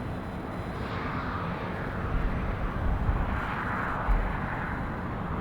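Jet airliner engine noise: a steady rushing roar with a low rumble underneath.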